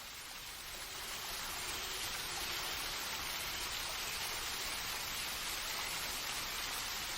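Steady soft hiss of water from a nature soundscape bed, swelling slightly over the first two seconds and then holding level.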